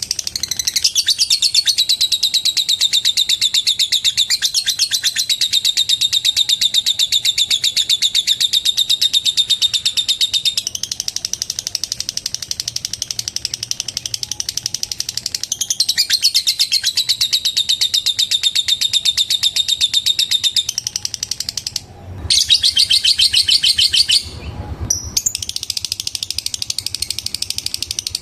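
Lovebird giving its long, very fast chattering trill ('ngekek'), high-pitched chirps repeated many times a second in runs of several seconds with short breaks. About 24 seconds in, a brief low muffled noise cuts through.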